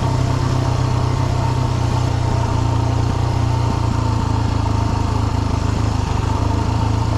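Dirt bike engine running steadily at low, even revs while riding a rough trail.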